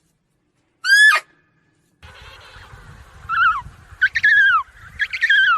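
Animal calls: one short call about a second in that rises and then drops sharply. After a change to a noisier background, three falling calls follow, each descending in pitch.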